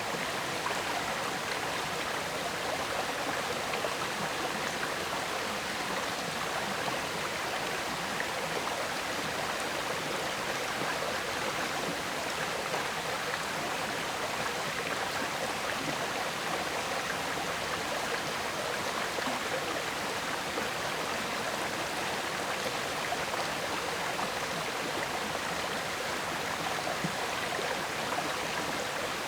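River water flowing steadily, an even rushing and gurgling.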